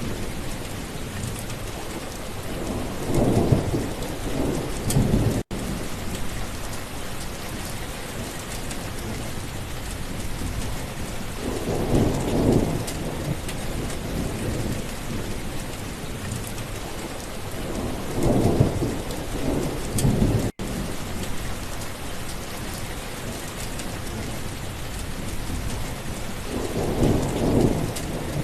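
Steady rain with thunder rolling in low rumbles four times, spaced several seconds apart. The sound drops out for an instant twice.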